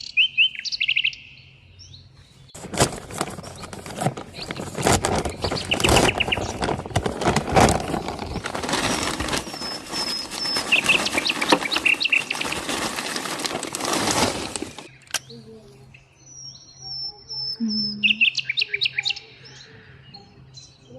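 Wild songbirds chirping and trilling in short high phrases throughout. For about twelve seconds in the middle, a loud, dense crackling and clicking noise covers them and then stops abruptly.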